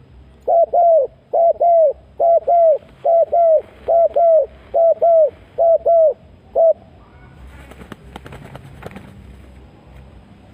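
A dove cooing loudly in seven quick pairs of short notes, each note dropping slightly in pitch, about one pair a second, ending on a single note. Scattered clicks and rustling follow near the end.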